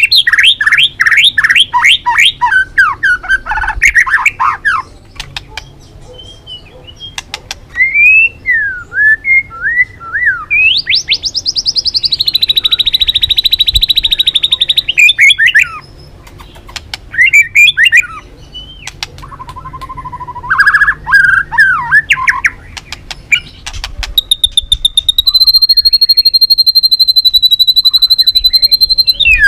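White-rumped shama singing a long, varied song: fast rattling trills, sweeping whistled notes and sharp clicks, with a buzzy trill in the middle and a long, steady high whistle near the end.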